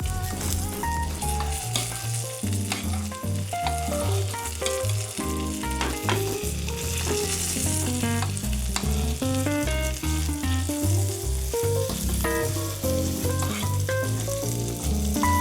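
Floured salmon fillets frying in butter in a pan, a steady sizzle. Background music with a stepping bassline plays under it.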